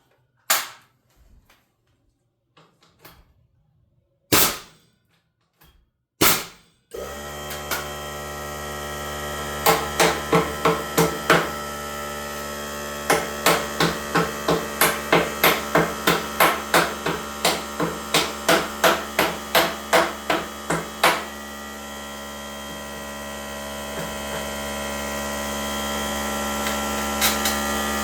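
A few separate sharp knocks, then a steady machine hum starts abruptly about seven seconds in and keeps running; over it, runs of sharp hammer strikes come about two to three a second through the middle, then stop.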